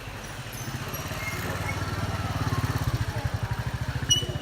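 A small engine running close by with a rapid low pulse, growing louder to a peak about three seconds in and then easing slightly. A sharp click comes near the end.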